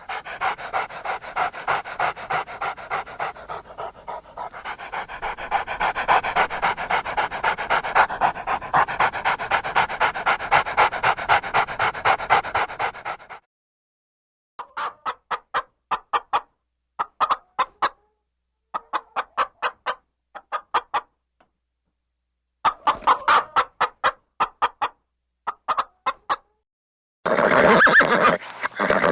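A dog panting in quick, even pulses for about thirteen seconds, then pausing and panting again in several short bouts. A louder, different animal sound comes in near the end.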